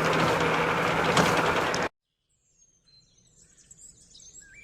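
Road and engine noise inside a moving car, with a steady low hum, cuts off abruptly about two seconds in. After a moment of silence, faint bird chirps fade in toward the end.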